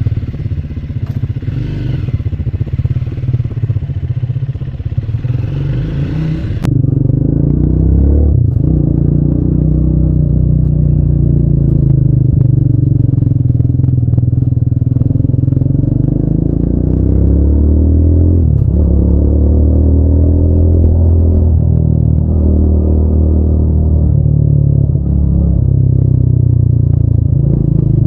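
Triumph Speed 400's single-cylinder engine and exhaust running steadily for the first several seconds. About seven seconds in it gets louder, and its pitch then rises and falls again and again as the motorcycle is ridden through the gears.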